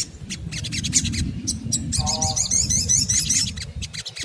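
Olive-backed sunbird singing: rapid sharp, high chirps, with a fast warbling trill about two seconds in, over a steady low rumble.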